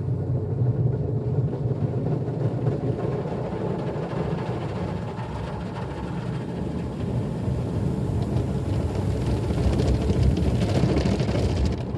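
Automatic car wash machine working over the car at the start of the exterior wash: a steady low rumble with a hiss of water spray and washing brushes, the hiss growing louder about nine seconds in.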